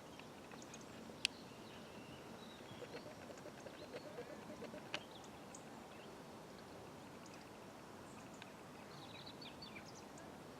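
Faint outdoor ambience with small birds chirping now and then, and two sharp clicks, one about a second in and a louder-looking one about five seconds in.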